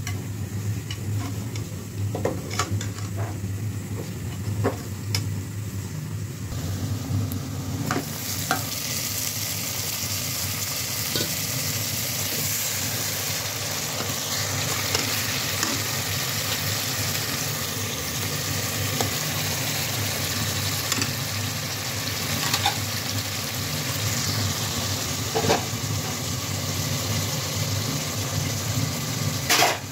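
Sliced onions and chopped spring onions frying in hot oil in a pan while being stirred, the utensil scraping and knocking against the pan. A loud, steady sizzle sets in about 8 seconds in; before that there are only scattered knocks.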